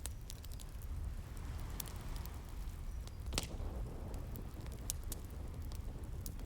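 Wood fire crackling with scattered sharp pops, the loudest a little past halfway, over a steady low rush of sea waves.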